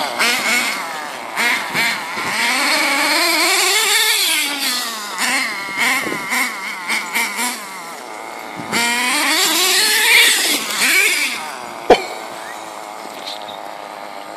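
HSP .18 big block nitro engine of an RC monster truck revving in short throttle blips and longer climbs and falls, settling to a quieter idle between bursts. A single sharp crack sounds about twelve seconds in.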